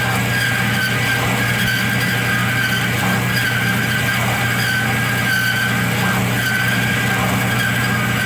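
A saw cutting through a thick steel angle (6x8x1/2-inch), running steadily. The motor hums low, and a high squealing tone from the cut rises and falls in strength.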